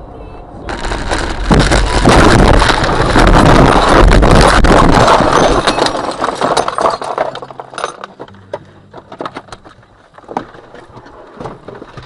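A car crash: a sudden loud noise of impact and scraping that lasts about five seconds, then dies away into many scattered clinks of debris settling.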